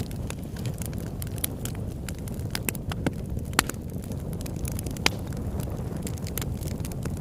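Campfire crackling: irregular sharp pops and snaps of burning wood over a steady low rumble, with louder pops about three and a half and five seconds in.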